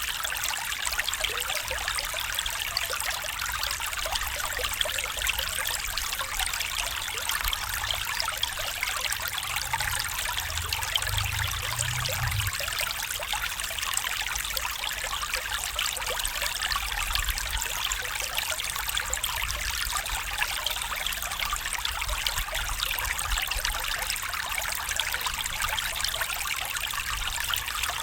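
Stream water flowing with a steady, even trickle. A brief low rumble comes in about ten seconds in.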